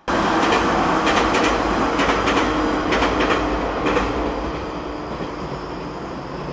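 Electric local train running past close by, wheels clacking over rail joints in quick groups, then the rumble eases off as the train draws away.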